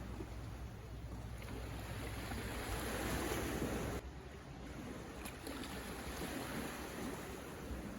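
Sea waves washing onto the shore, one swell building to the loudest point a little before halfway and then cutting off suddenly, over a steady low rumble.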